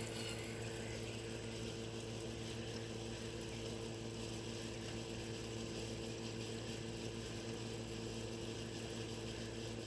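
Steady low machine hum with several even tones under a faint hiss, unchanging throughout.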